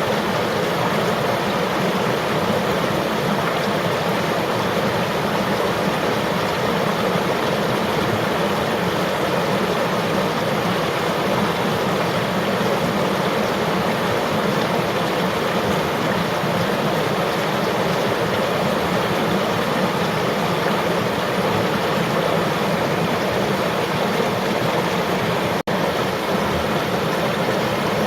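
River or stream water flowing and rushing steadily, with a momentary dropout near the end.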